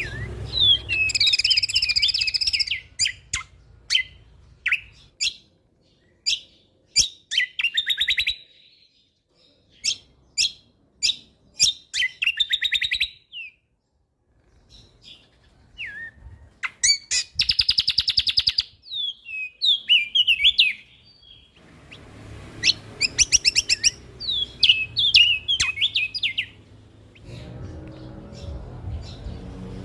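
Cucak kombo (kecial kombok) songbird singing in bursts of sharp chirps, rapid trills and clicking notes, with a pause of a couple of seconds near the middle. A faint low hum sits underneath at the start and near the end.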